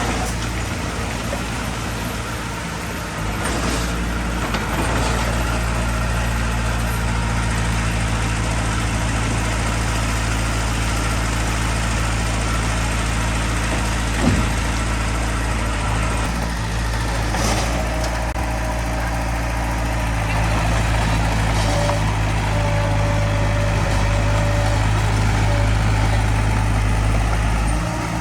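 Diesel engine of heavy earthmoving machinery running steadily, with a single sharp knock about halfway through.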